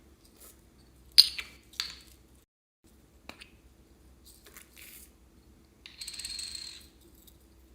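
Small hard items clicking and clinking, with a sharp click about a second in and another just after, then a brief rustling hiss near the end.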